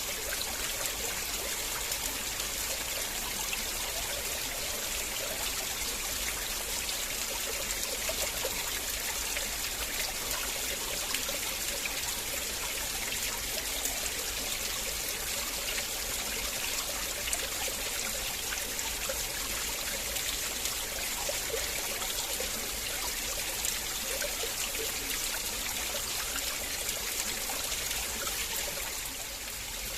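River water flowing and trickling steadily, with a slight dip in loudness just before the end.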